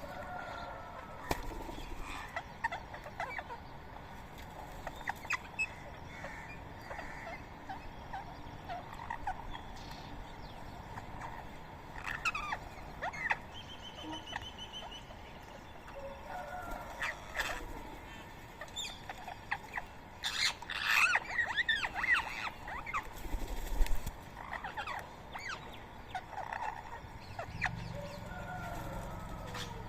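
Birds calling at a feeding spot, rose-ringed parakeets among them: scattered chirps and squawks, with a burst of loud, chattering calls about two-thirds of the way through.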